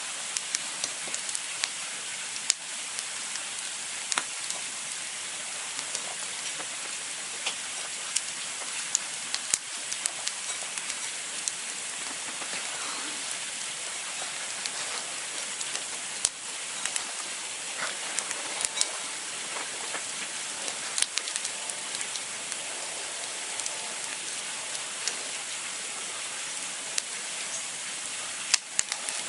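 Campfire burning with a steady hiss and frequent sharp crackles and pops at irregular intervals.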